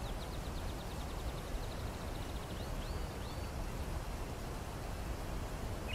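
A bird chirping in a quick run of short high calls, ending with two longer chirps about three seconds in, over a steady low background rumble.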